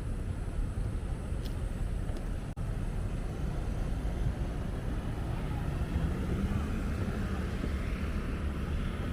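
Steady city street traffic noise with a deep rumble, and a passing vehicle's engine note rising about two-thirds of the way through.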